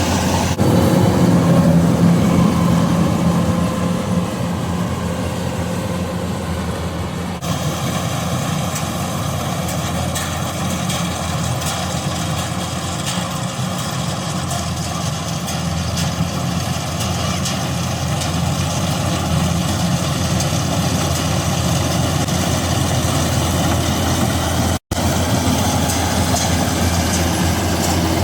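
Combine harvester's diesel engine running steadily with a low, even hum, cutting off for a moment near the end.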